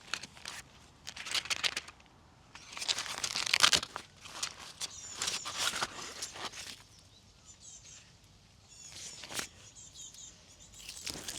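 Irregular rustling and crinkling handling noises in bursts, loudest a few seconds in, with small birds chirping faintly in the background.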